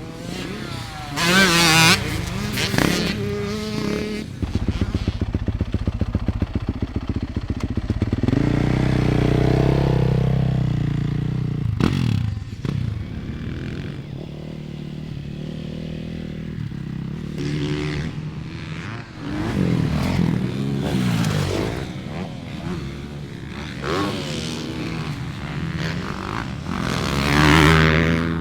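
Motocross dirt bike engines revving on the track, the pitch rising and falling as the riders work the throttle and pass by.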